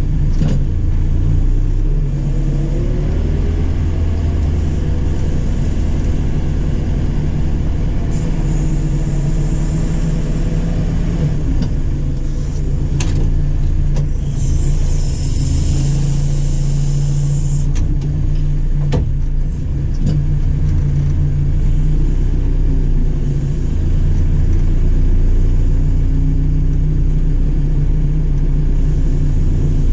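JCB 4CX backhoe loader's diesel engine running steadily under working load. There are a few sharp clanks and, about halfway, a few seconds of hissing.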